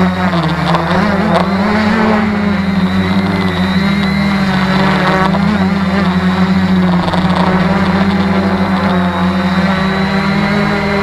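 Tarot 650 multirotor's electric motors and propellers humming in flight, the pitch wavering up and down as the motor speeds change to hold it steady in gusty wind, with wind noise on the microphone underneath.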